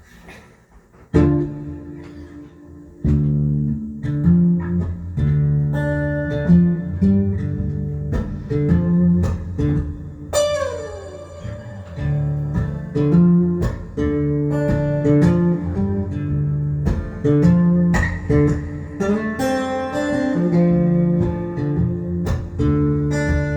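Stanford acoustic guitar playing a blues tune: picked melody over repeating bass notes. It starts softly about a second in and plays fully from about three seconds, with a note sliding down in pitch around ten seconds in.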